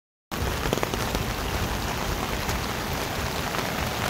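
Heavy rain falling: a steady, even hiss with a few louder drop hits, cutting in abruptly just after the start.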